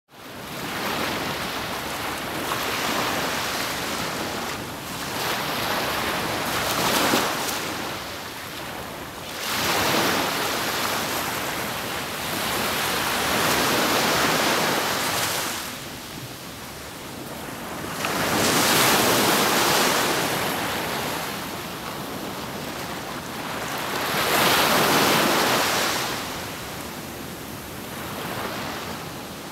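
Black Sea surf breaking on the shore, the rush of each wave swelling and ebbing every five or six seconds, with some wind on the microphone.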